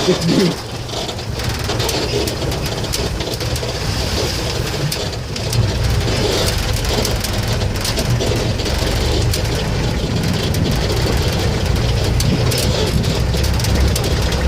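Safari jeep engine running steadily, growing louder and heavier about five and a half seconds in.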